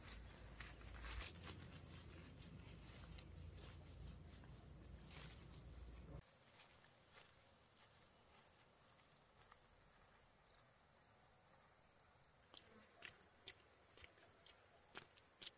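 Faint insects chirring in a steady high, thin tone, with scattered light clicks. A low rumble underneath stops abruptly about six seconds in.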